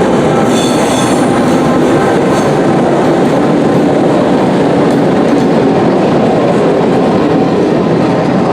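Norfolk Southern geometry train rolling past close by: a steady, loud rumble of wheels on rail. Faint high wheel squeal is heard in about the first second.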